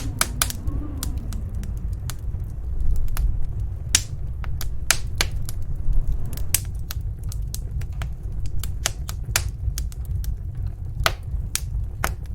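Wood fire crackling in a fireplace: irregular sharp pops and snaps over a steady low rumble. A faint low wind howl from the snowstorm falls away in the first second or so.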